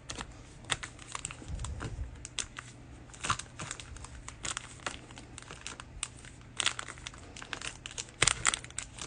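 Cellophane wrapper of a trading-card cello pack crinkling and tearing as the pack is opened, in irregular crackles that thicken near the end.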